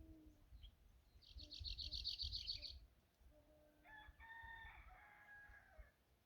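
Faint outdoor birdsong: a small bird gives a fast high trill, then a distant rooster crows once near the end.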